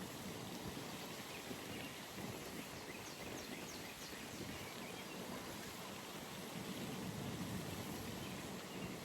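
Quiet outdoor pond ambience: a steady faint background wash with scattered distant bird chirps. About three seconds in comes a quick run of five short, high, falling bird notes.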